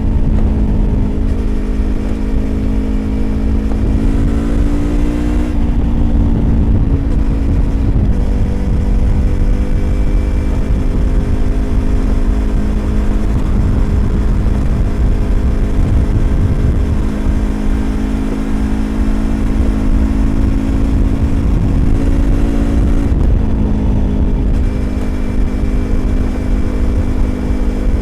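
A Yamaha YZF-R25's parallel-twin engine with an aftermarket Prunus exhaust, running at a steady cruise under a low rumble of riding wind. The revs rise and fall back twice, around five seconds in and again near the 23-second mark.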